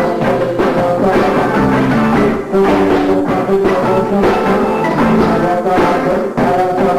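Live band playing an instrumental funk and R&B jam: sustained chords and melody lines over a steady drum beat.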